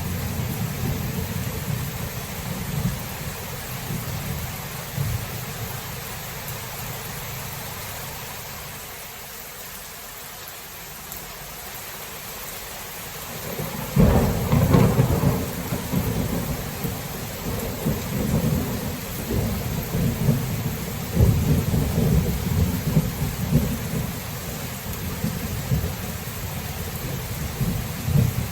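Thunderstorm: steady rain with rolling thunder. The rumble dies down about a third of the way in, then a loud close thunderclap breaks about halfway through and rumbles on in waves to the end.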